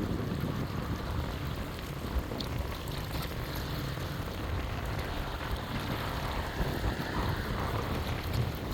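Wind buffeting the microphone, a steady low rumble over an even outdoor hiss.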